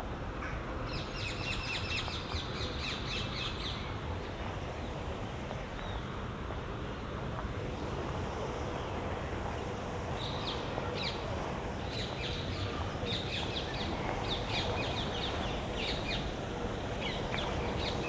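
Birds calling: a quick rattling series of sharp calls about a second in that lasts a couple of seconds, then repeated short chirps in the second half, over a steady low rush of outdoor background noise.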